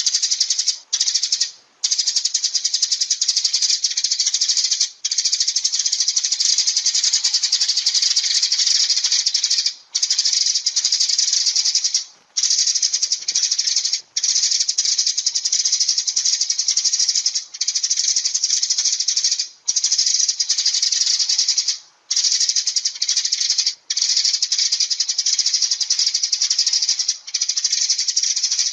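Sparrows chattering: a loud, dense, fast run of high chirps, broken by short pauses every few seconds.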